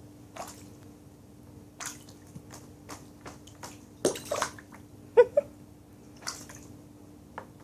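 Harris hawk bathing, splashing water in irregular short bursts, the biggest about four and five seconds in.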